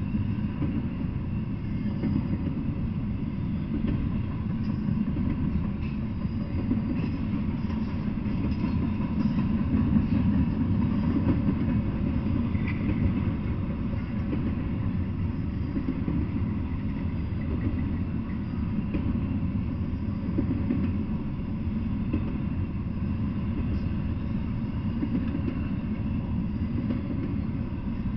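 Double-stack intermodal freight train passing: a steady low rumble of its well cars rolling on the rails.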